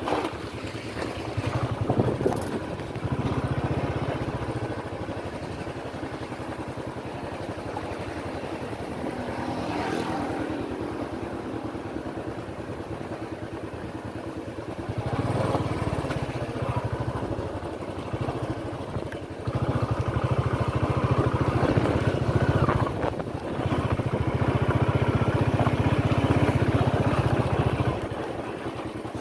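Royal Enfield Thunderbird's single-cylinder engine running on the move, its level rising and easing off in stretches as the throttle changes, louder about halfway through and through most of the last third.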